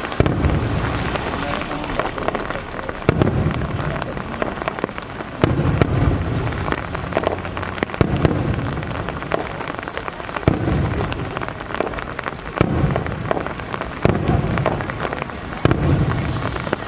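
Aerial firework shells bursting with deep booms about every two to three seconds, over a steady patter of rain.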